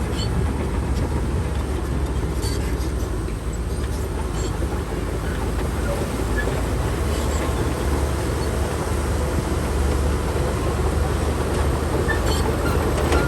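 Heavy diesel earthmoving machinery, the Shantui DH17C2 bulldozer, running steadily with a deep continuous drone. A few faint clicks and clanks come through now and then.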